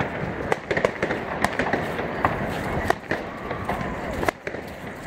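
Fireworks going off: a string of irregular sharp bangs and pops.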